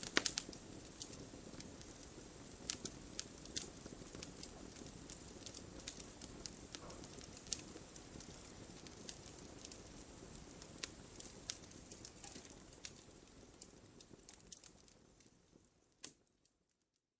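Wood fire crackling: irregular sharp pops and snaps over a soft low hiss of burning. It fades away near the end to silence, with one last pop.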